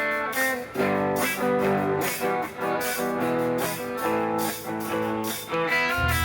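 A gospel band's guitars playing an instrumental intro of chords before the singing starts; a low bass part comes in near the end.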